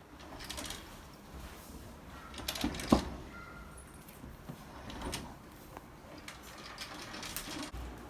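Refrigerator doors and fittings being handled: scattered clicks, knocks and light clatter, with the loudest knock about three seconds in.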